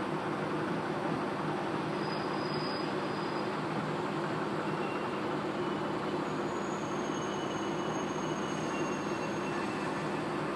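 Amagi Railway diesel railcar running, heard from inside the cabin: a steady rumble of engine and wheels with a constant low hum. Faint high-pitched whines come in during the second half as the train slows.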